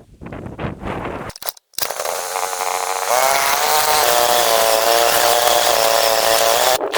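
Chainsaw running at a steady high speed for about five seconds, then stopping suddenly just before the end.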